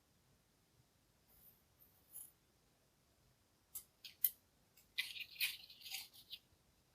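Three light clicks, then about a second of rustling and scraping, as the sabre saw and its accessories are handled.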